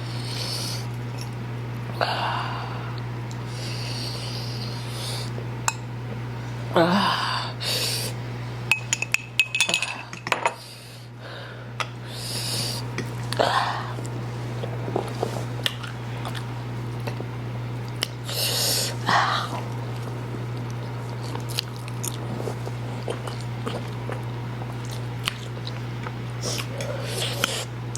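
Mukbang eating at the table: cutlery clinking on dishes, noodles being eaten and short sniffs among the diners, over a steady low hum.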